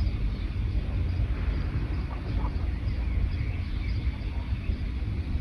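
Small forest birds chirping faintly, short high calls scattered throughout, over a steady low rumble that is the loudest sound.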